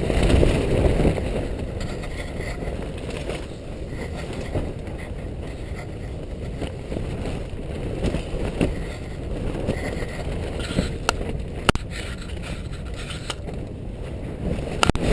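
Storm wind battering a mountaineering tent: a steady low rush with the tent fabric shaking, and a few sharp snaps of the fabric in the second half.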